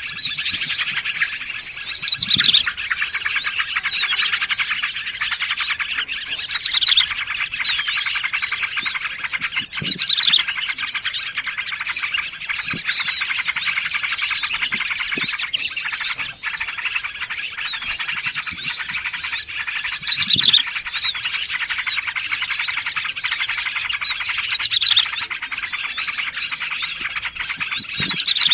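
Dense, continuous chorus of many overlapping small-songbird chirps and fast trills, a layered bird-lure track of bulbul, prinia and sunbird calls. A rapid trill passage near the start comes back about two-thirds of the way in.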